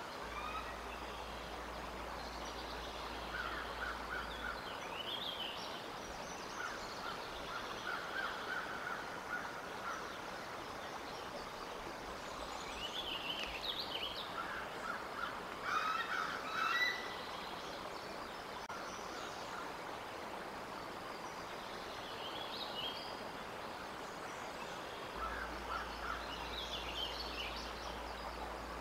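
Birds chirping and calling in short, scattered bursts over a steady outdoor hiss, with a slightly louder cluster of calls a little past halfway through.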